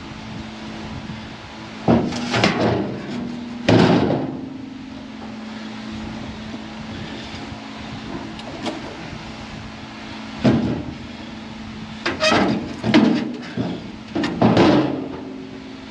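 Steel feeder house floor plate clanking and banging against the combine's frame as it is manoeuvred into place, a few loud metal knocks about two seconds in and a quick run of them in the second half, over a steady low hum.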